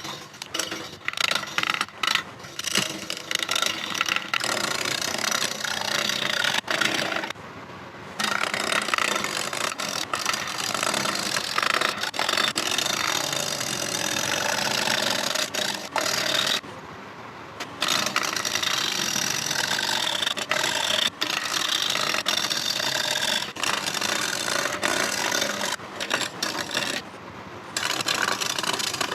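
Turning tool cutting a spinning rosewood bowl blank on a Laguna Revo 18/36 lathe: a steady, rough scraping hiss of wood being cut. It is broken three times by a pause of about a second, where the tool leaves the wood and only the lathe keeps running.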